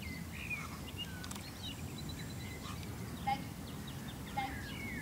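Small birds chirping and singing in short, scattered calls over a steady low background rumble, with two slightly louder chirps about three and four and a half seconds in.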